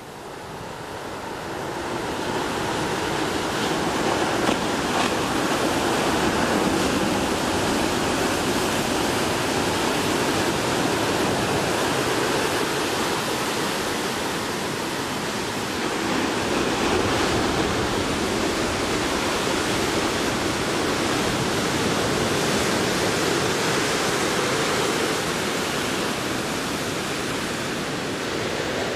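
Heavy typhoon surf breaking on the shore, a continuous rushing noise of water with no gaps between waves. It swells in over the first couple of seconds.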